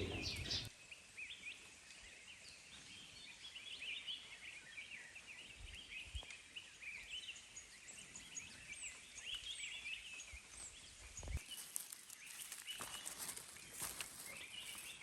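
Many small birds chirping and calling in a forest, short high notes scattered throughout. A few sharp clicks and rustles come in the last few seconds.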